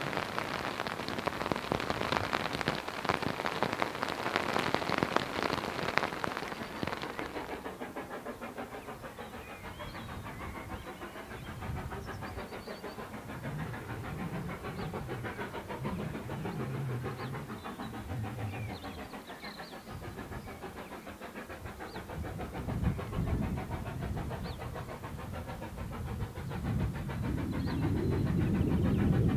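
Steady rain falling, a dense hiss that stops suddenly about seven seconds in. After it comes a much quieter outdoor background with irregular low rumbles that grow louder near the end.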